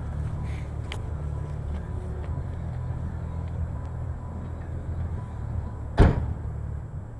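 1994 Camaro Z28's LT1 V8 idling with a steady low exhaust rumble. About six seconds in there is a single loud thump, and the rumble is quieter near the end.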